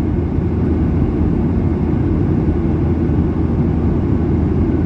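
Steady cabin drone of a Boeing 737-800 in flight, the mix of engine and airflow noise heard from a passenger seat. It is an even, deep rushing noise with no change.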